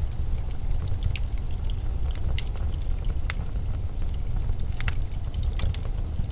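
Winter storm wind, a steady low rumble, with scattered sharp crackles and ticks over it.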